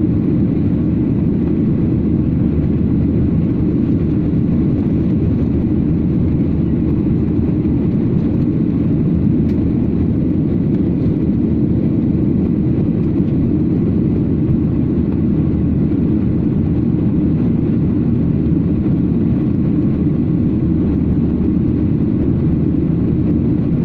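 Steady low roar of a jet airliner, engine and air noise heard from inside the passenger cabin, with no change in pitch or level.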